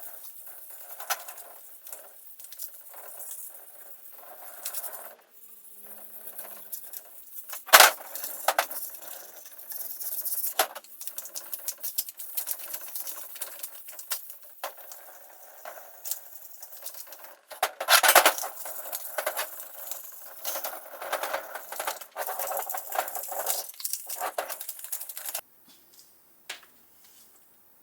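Small metal parts being handled: irregular clicks, clinks and scraping, with two louder knocks about 8 and 18 seconds in. The sound cuts off suddenly about 25 seconds in.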